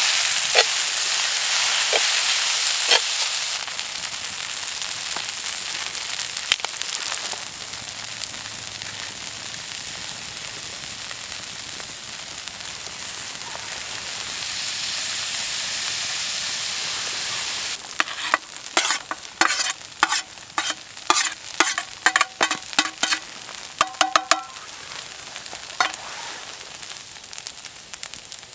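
Fried ramen sizzling in a pan, the hiss louder at first and easing off. Over the second half, a utensil stirring the noodles, scraping and knocking against the metal pan in a run of sharp clicks, some with a brief ring.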